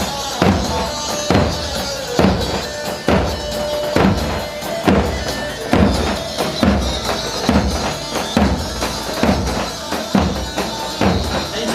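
Turkish halay folk dance music played live by a wedding band: a keyboard melody over a steady, heavy drum beat of about one stroke a second.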